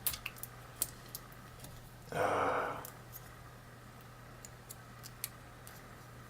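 Small, sharp metallic clicks and taps from a padlock and a thin tool as it is worked into the lock during disassembly, with a short hiss about two seconds in that is louder than the clicks.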